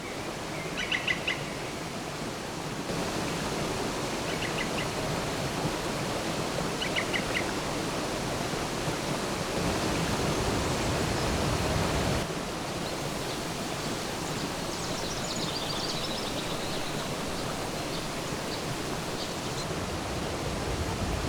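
Steady rushing of mountain water from the Krimml Waterfalls and the Krimmler Ache river, with a bird chirping a few times.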